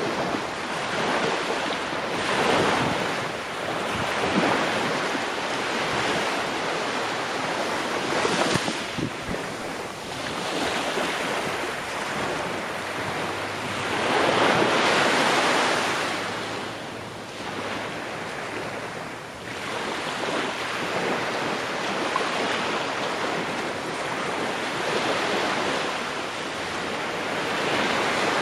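Ocean waves breaking and washing on a shore, a continuous surf hiss that swells and ebbs every few seconds, with one larger swell about halfway through.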